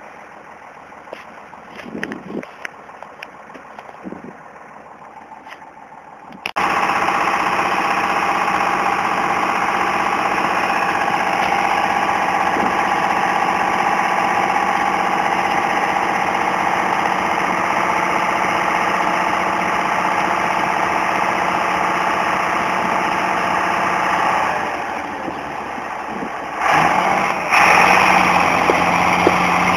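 Farm tractor engine, faint at first with a few knocks, then suddenly loud and close, running steadily under load. Near the end it drops back briefly, then picks up louder again.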